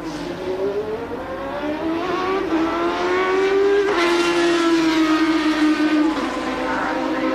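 1988 Formula One car engine at high revs, its pitch climbing steadily for about four seconds, then dropping a step and easing gently down.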